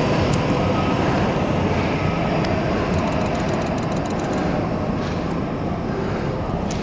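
E8 series Shinkansen train pulling out of the station, its running rumble with faint steady tones slowly fading as it draws away.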